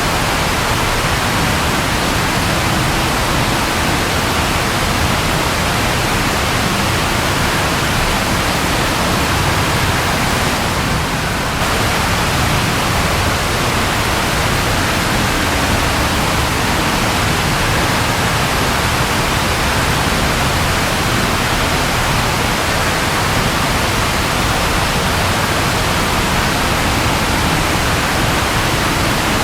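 Steady rain falling, an even hiss with no thunder. It thins slightly for about a second around eleven seconds in.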